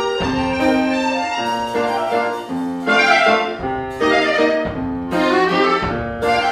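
Student chamber sextet playing live: several pitched instruments sounding together, with strong accented chords about once a second.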